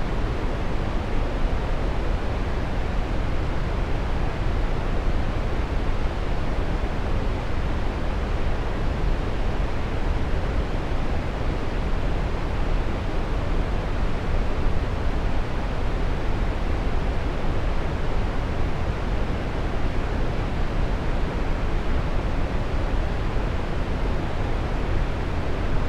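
Waterfall: falling water rushing steadily, an even noise heaviest in the low end with no breaks or changes.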